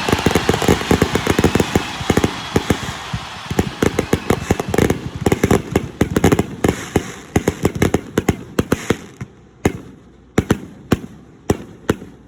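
Fireworks going off in a rapid barrage of sharp bangs and crackles, many a second at first, thinning out to a handful of separate bangs near the end.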